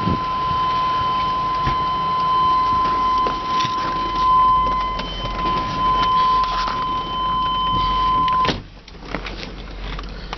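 A steady high-pitched warning buzz from the 1997 Chevrolet Suburban's cabin, over the low hum of the idling engine and a few scattered clicks. About eight and a half seconds in, a sharp thump cuts the buzz off and the background gets quieter.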